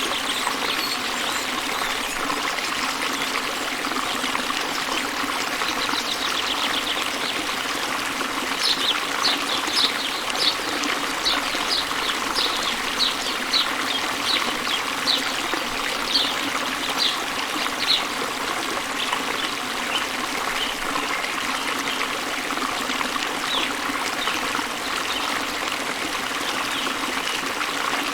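Steady rush of falling water from a waterfall, with a bird giving a run of short high chirps, about one or two a second, from about a third of the way in to about two-thirds through, and fainter chirps after.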